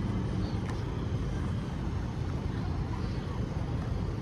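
A large vehicle's engine running steadily, a low continuous rumble.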